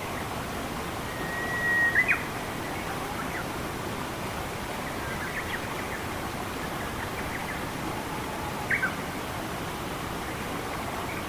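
Steady rush of flowing water. A bird gives a short whistle ending in sharp chirps about two seconds in, and two quick chirps later on.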